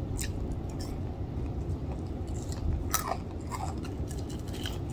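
A person chewing and crunching crispy fried chicken wing skin, with a few sharp crunches, the loudest about three seconds in.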